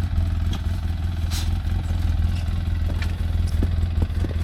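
Side-by-side UTV engine running steadily, with a few light clicks and rattles.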